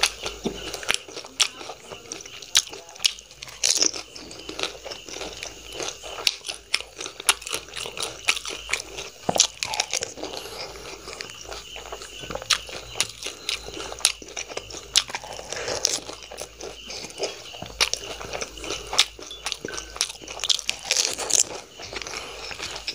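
Crunching and chewing of pani puri: crisp, hollow fried puri shells dipped in tamarind water cracking between the teeth in irregular, sharp crunches.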